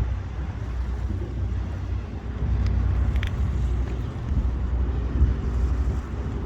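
Steady low rumble of a river boat's engine running, with a brief faint high squeak a little after three seconds in.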